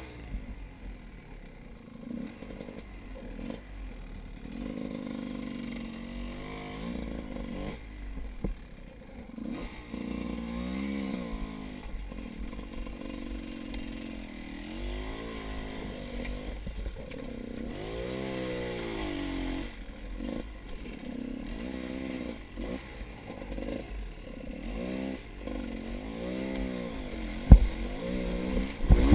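A motor vehicle engine revving up and down again and again as it is ridden, over a steady low rumble of wind on the microphone, with a sharp knock near the end.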